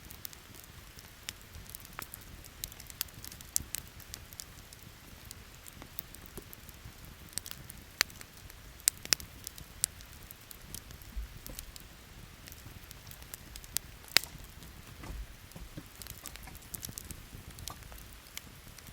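Wood campfire crackling, with sharp irregular pops throughout over a steady hiss of rain. The loudest pops come about eight, nine and fourteen seconds in.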